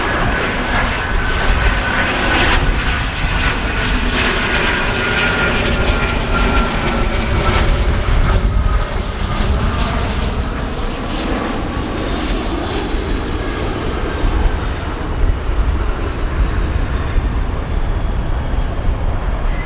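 Dassault Falcon 900EX business jet's three turbofan engines running as it comes in to land, a steady loud rush with a thin whine that slowly falls in pitch over the first ten seconds as the jet passes.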